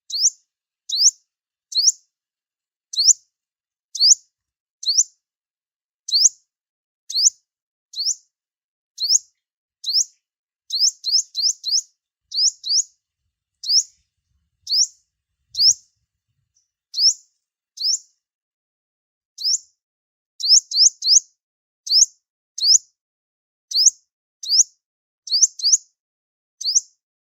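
Sunbird calling: short, sharp, high chirps, each sliding down in pitch, about one a second and sometimes in quick runs of three or four, as played for luring birds to a trap.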